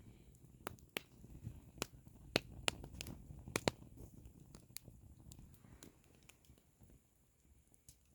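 Oak firewood burning, crackling with sharp, irregular pops over a low rumble from the fire. The pops come thickest in the first half and thin out near the end.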